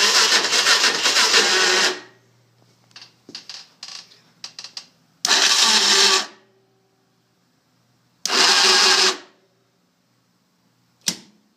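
The electric starter of a 2006 Kawasaki KFX 400's single-cylinder four-stroke engine cranks in three tries, about two seconds and then about one second each, and the engine does not catch: a no-start even with a new plug and starter. Several light clicks come between the first and second tries, and one sharp click comes near the end.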